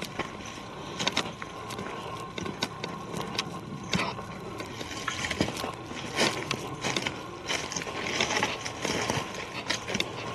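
Footsteps through forest undergrowth, irregular crunches, snaps and rustles as people walk across rough ground.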